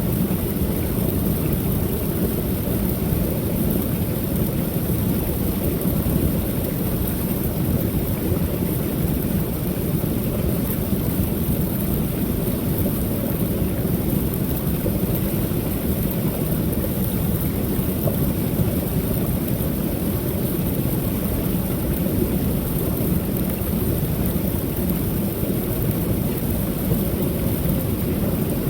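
Waterfall: a steady, low rushing of falling water with a thin high hiss above it.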